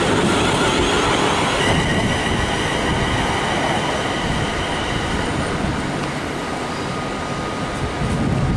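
London Northwestern Railway Class 350 Desiro electric multiple unit pulling away, wheels rumbling on the rails and fading slowly as it draws off. A steady high whine joins in about two seconds in and stops a few seconds later.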